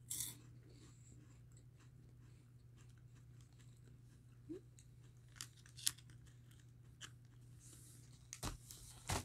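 Quiet chewing with a few sharp crunches of crumbly, chocolate-dipped crispy rolled wafers (Bahlsen Waffeletten), scattered over a steady low hum.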